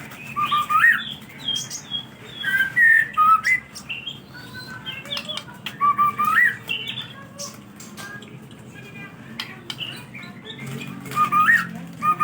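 White-rumped shama (murai batu) singing loud whistled phrases of rising whistles and chirps, in separate bursts with a longer pause in the middle.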